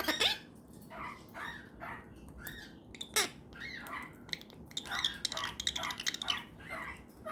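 Australian king parrot making a string of short squeaky calls, about two a second, mixed with a few sharp clicks as it eats a cookie.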